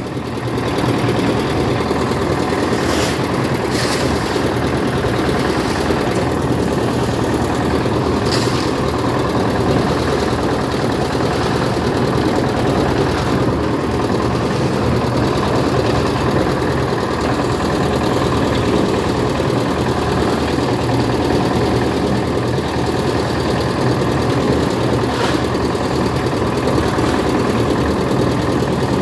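A heavy engine idling steadily, with a few faint short ticks over it.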